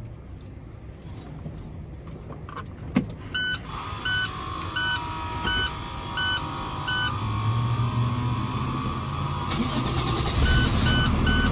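Box truck cab warning chime beeping steadily, about one beep every 0.7 seconds, in two runs, over the low rumble of the truck. A sharp click comes about three seconds in, just before the beeping starts.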